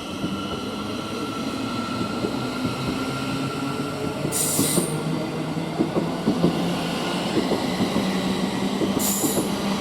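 Thameslink Class 700 electric multiple unit pulling out of the station, a steady rumbling run with a low hum. Two short, sharp high hisses come about halfway through and again near the end.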